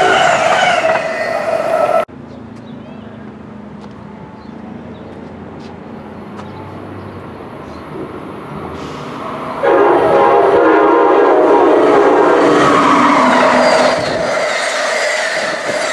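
Amtrak Siemens ACS-64 electric locomotive approaching with a low hum, then sounding its multi-note horn for about four seconds as it comes past. Its stainless-steel Amfleet passenger coaches then rush by with a steady wheel whine. Before that, the coaches of another passing train are heard, cut off abruptly about two seconds in.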